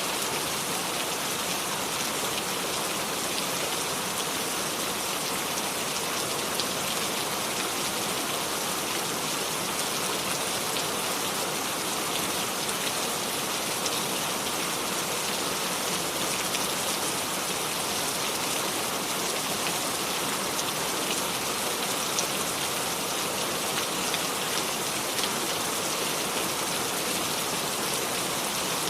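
Steady rain falling, an even hiss with the patter of individual drops on a surface, no thunder.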